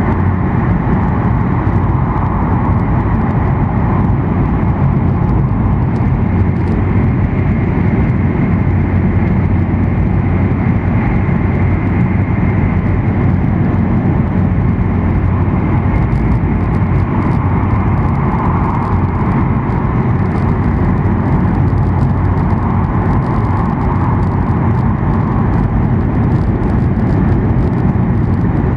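Cabin running noise of an E7 series Shinkansen travelling at speed: a steady rumble of wheels on rail and rushing air, heard from inside the car by a window. Faint high crackling joins in from about halfway through.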